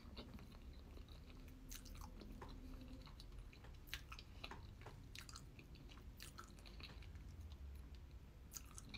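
A person chewing a mouthful of soft, cheesy lasagna sheets: faint, wet mouth clicks and smacks scattered throughout.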